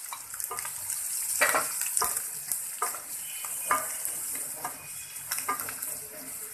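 Sliced bitter gourd, onion and boiled rohu fish roe sizzling in hot oil in a wok, with a steady hiss, while a wooden spatula stirs them, scraping and knocking against the pan many times.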